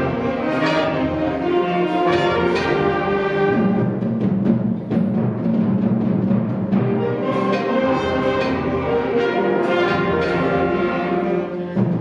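Eighth-grade school concert band playing: sustained brass and wind chords over heavy, repeated timpani and percussion strikes.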